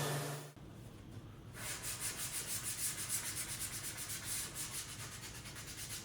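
Sandpaper rubbed by hand over wood in quick back-and-forth strokes, several a second. A humming power tool shuts off about half a second in, just before the sanding begins.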